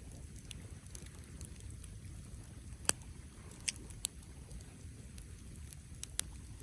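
Wood campfire burning, with a low steady rumble underneath and scattered sharp crackles and pops from the burning wood, the loudest about three seconds in and a few more around four and six seconds.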